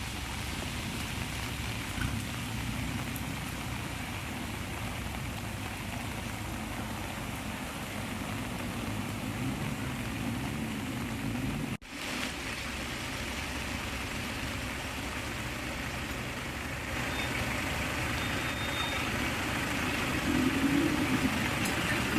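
Motor vehicle engines running steadily with a constant background hiss, the sound dropping out briefly about halfway through.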